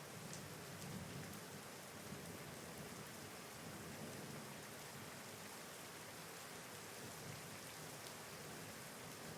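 Steady rain falling and pattering on surfaces, with a few distinct drops. A low rumble of distant thunder is strongest in the first second or so, then fades under the rain.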